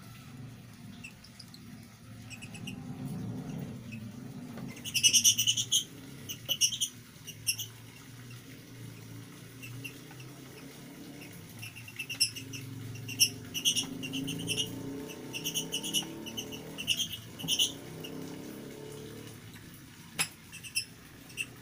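Lovebirds chirping in short, high-pitched bursts that come in quick clusters, starting about five seconds in, over a low steady hum.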